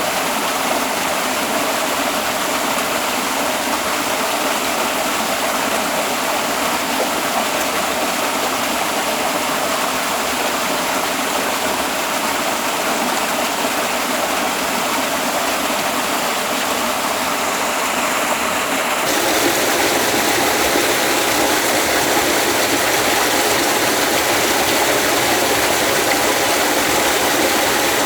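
Steady rush of falling water from a waterfall. About 19 seconds in the sound changes abruptly to a slightly louder, fuller rush.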